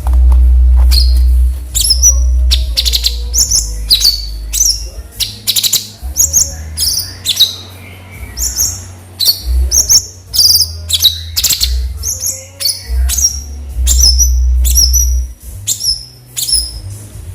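Cucak cungkok song: runs of short, high, sharp chirps repeated about two to three times a second. A low rumble comes and goes underneath, loudest near the start and about fourteen seconds in.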